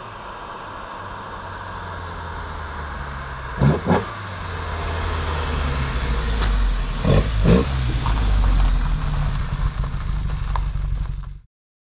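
Alfa Romeo 1750 GTV's twin-cam four-cylinder engine running as the car drives up, growing louder as it nears. Two short sharp double bursts stand out, about four and seven seconds in, and the sound cuts off suddenly near the end.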